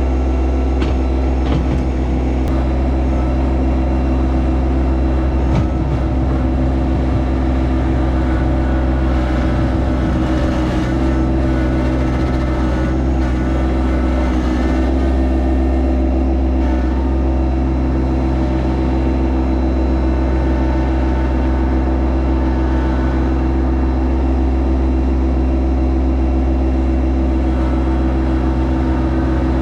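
Yanmar SA324 compact tractor's three-cylinder diesel engine running at a steady speed.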